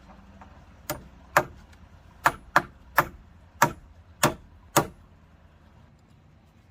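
Eight sharp blows of a hand tool striking wood, about one every half second at an uneven pace, over roughly four seconds.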